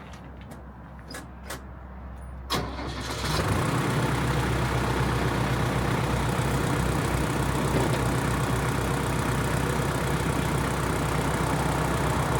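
Tractor engine running low with a few clicks, then a knock about two and a half seconds in, after which the engine picks up to a loud, steady higher speed.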